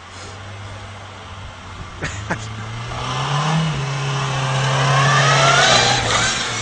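A car engine running, its pitch climbing a little and then holding while it grows louder, with two sharp clicks about two seconds in.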